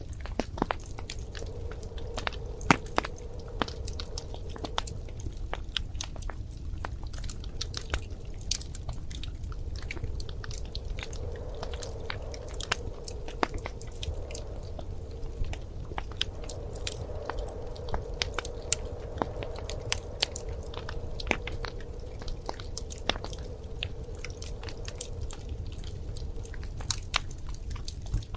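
Wood fire crackling in a fireplace: irregular sharp pops and snaps over a steady low rumble of the flames, with a soft hiss that swells and fades.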